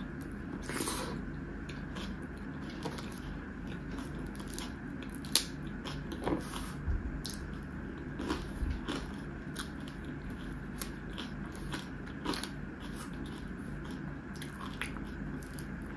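Close-miked chewing of a mouthful of rice mixed with taro-root eromba, with scattered soft crunches and wet mouth clicks at an irregular pace, while fingers squish and mix rice on a wooden board.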